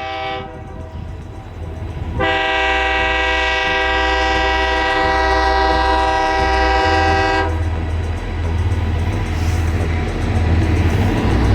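Horn of the El Chepe passenger train's diesel locomotive: a brief toot, then one long steady blast of about five seconds, over the low rumble of the train.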